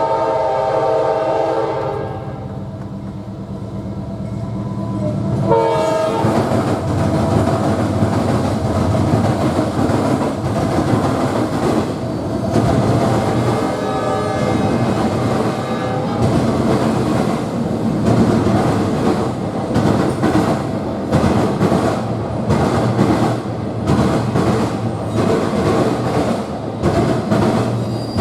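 Train horn sounding a multi-note chord that ends about two seconds in, and a short second blast about five and a half seconds in. A train then passes close by, its cars rolling and wheels clattering rhythmically over the rail joints.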